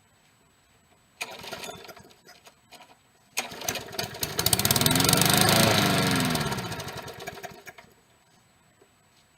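Push mower's small engine on a cold start: a first pull about a second in gives a short burst of noise without catching. On a second pull, a few seconds in, the engine fires, rises in pitch, then slows and dies out near the end.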